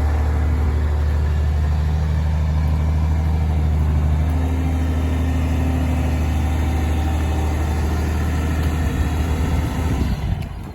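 2001 International 4700 truck's diesel engine idling steadily with a deep, even hum. The hum breaks up and dies away about ten seconds in, as if the engine is shut off.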